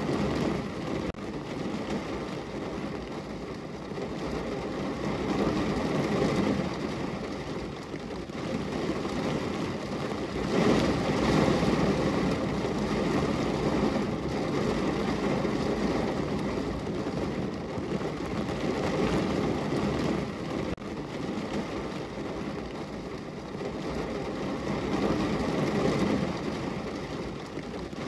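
Rain falling on a window, heard as a steady low rushing noise that swells and eases every few seconds.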